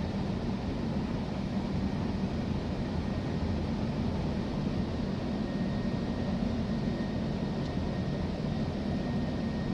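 Automatic car wash machinery running, heard from inside the car's cabin: a steady rushing noise with a low hum, and a faint thin whistle joining about halfway through.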